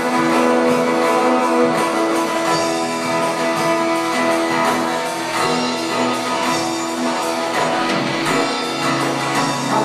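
Instrumental music led by strummed guitar, playing held chords without singing.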